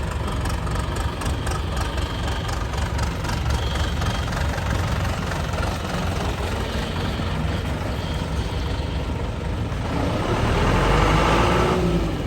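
John Deere 2650 tractor's diesel engine running steadily, then revving up about ten seconds in and dropping back near the end.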